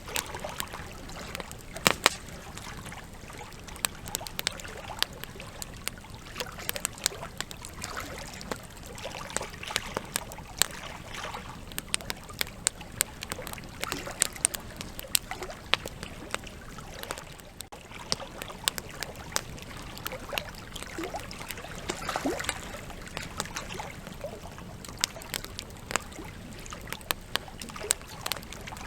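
Wood campfire burning, crackling with frequent irregular sharp pops and snaps over a steady low rush of flame. A short whistling squeal from a burning log comes about two-thirds of the way through.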